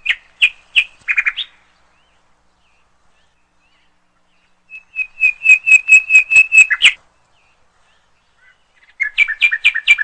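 Bird chirping in three quick runs of sharp repeated notes, about five a second: one at the start, one in the middle and one near the end.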